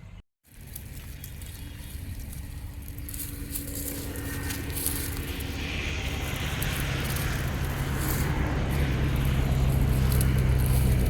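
A motor vehicle's engine running and growing steadily louder, after a brief dropout to silence just after the start.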